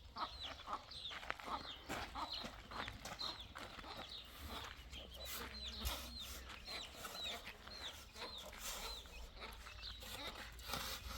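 A bird peeping over and over: short, high, falling peeps, two or three a second, with faint clicks and taps among them.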